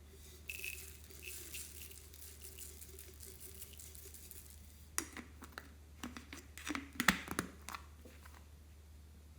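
Slime being squished and stretched by hand: a fine crackling for the first few seconds, then a run of sharp pops and clicks, loudest about seven seconds in.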